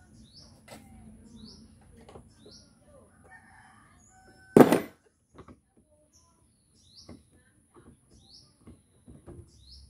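A bird repeats a short, high, falling chirp about once a second. Scattered light clicks and one loud knock about four and a half seconds in come from nearby handling.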